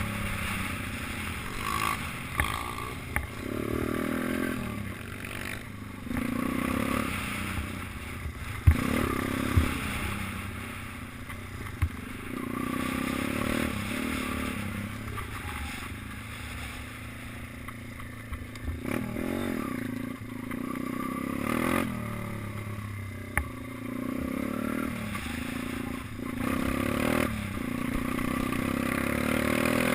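Minibike engine revving up and easing off again and again as it is ridden round the track. Wind noise throughout, and a few sharp knocks and rattles, the loudest a little under ten seconds in.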